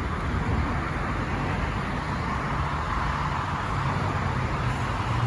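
Steady road traffic noise: a constant rumble and wash of passing vehicles.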